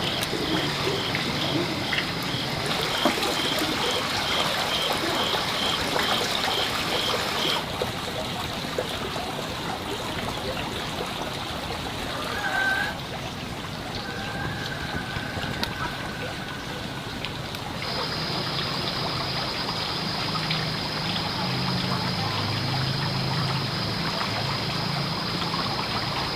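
Running water trickling steadily. A high, steady tone rides over it at first, cuts off abruptly about a quarter of the way through, and comes back about two-thirds of the way in.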